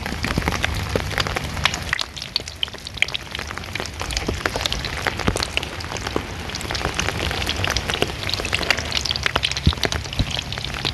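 Rain falling on a cheap styrofoam-core surfboard, with a dense, irregular crackle of sharp snaps and pops like food frying in a pan. The owner says the crackling is not simply the rain hitting the board.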